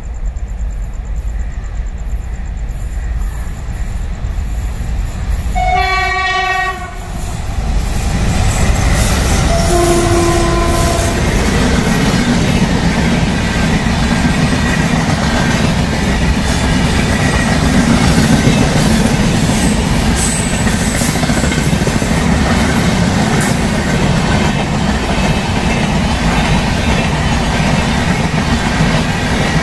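The 12720 Hyderabad–Jaipur Superfast Express passes at speed, its rumble building as it approaches. The locomotive horn sounds twice, about 6 and 10 seconds in, the second blast lower-pitched as it goes by. Then comes a steady rumble of the passenger coaches rushing past, their wheels clattering over the rail joints.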